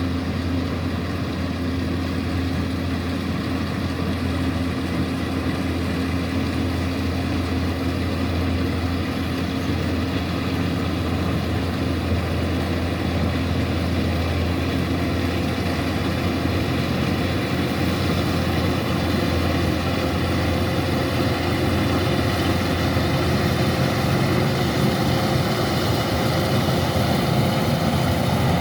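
Kubota DC-105X combine harvester's diesel engine running steadily with its harvesting machinery, a constant low hum that grows gradually louder toward the end.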